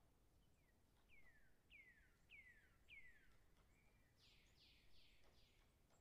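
Faint bird calls: a run of about five quick whistled notes, each falling in pitch, followed by four harsher, broader notes, with a faint tap or two in the background.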